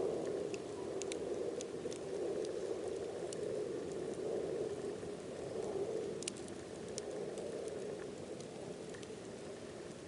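Wood fire burning, with scattered sharp crackles and pops over the steady rush of the flames, slowly getting quieter.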